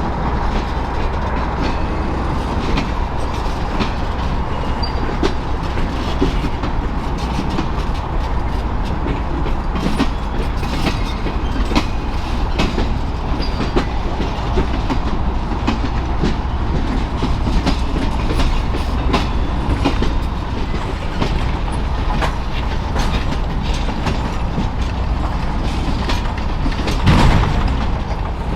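Norfolk Southern Triple Crown RoadRailer train rolling by, its trailers' rail bogies clicking steadily over the rail joints with a faint steady tone, and a louder thump near the end.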